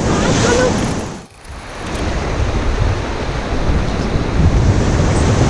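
White water of a river rapid rushing around a raft, with wind buffeting the microphone. The sound drops out sharply about a second in, then builds back up.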